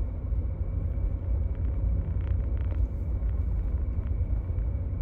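Steady low road and engine rumble inside a moving car's cabin, with a few faint clicks about two seconds in.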